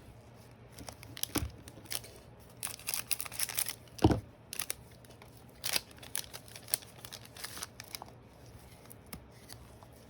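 Trading-card pack wrapper crinkling and tearing, with cards being handled and a single knock about four seconds in.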